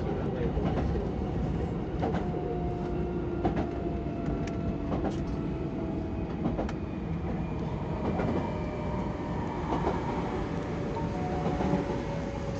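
Tobu 70000 series electric train running, heard from inside its driver's cab: a steady rolling rumble with scattered clicks from the wheels over the rails, and a faint whine that slides slowly down in pitch.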